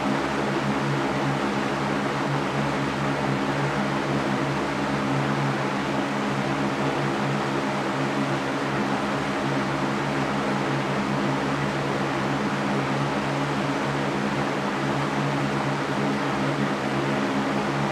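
Electric fan running steadily: an even rushing of air with a low steady hum from the motor.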